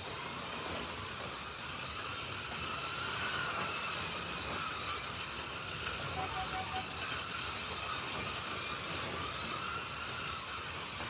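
Several 1/32-scale slot cars running around a track, their small electric motors whining with pitch rising and falling in waves as they speed up and slow for corners. A short run of four beeps comes about six seconds in.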